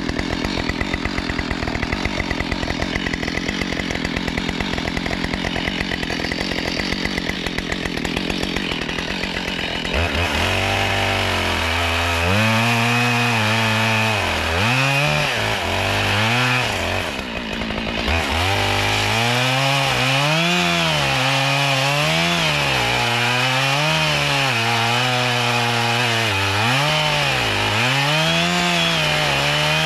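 A chainsaw idling with a rapid, even patter for about ten seconds, then revving and cutting firewood, its engine pitch rising and falling again and again, with a brief drop near the middle.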